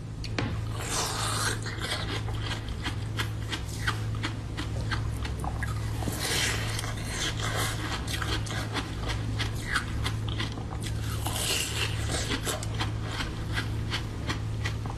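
Close-miked chewing and biting of a rose-shaped bun: many small moist clicks and crackles from the mouth, over a steady low hum.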